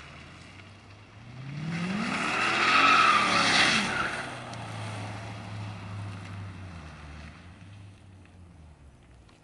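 Mercedes CLK 500's V8 revving up through a custom cat-back exhaust with a Magnaflow muffler as the tires squeal briefly, loudest about three seconds in. The engine then drops to a steady low rumble that fades out toward the end.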